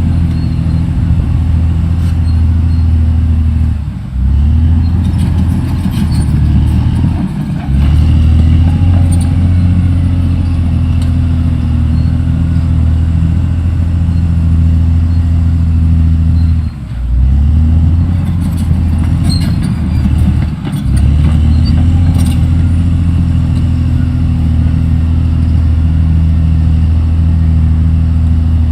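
Caterpillar D6R XL bulldozer's diesel engine running steadily under load. Its note dips four times and climbs back up after each dip.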